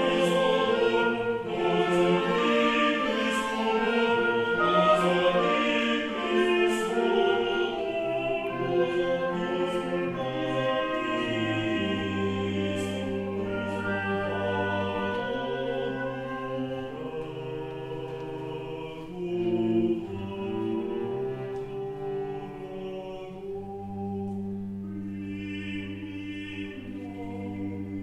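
Choir and ensemble performing Old Russian music. Sharp percussive strikes sound through the first several seconds. From about twelve seconds in, low voices or instruments hold a long steady note beneath the singing.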